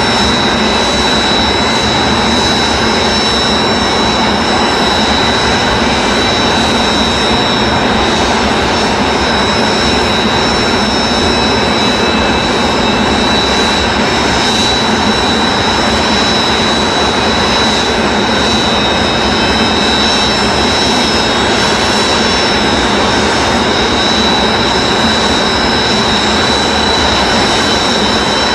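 Several Kawasaki T-4 jet trainers' turbofan engines running together at ground idle: a loud, steady rush with a steady high whine over it.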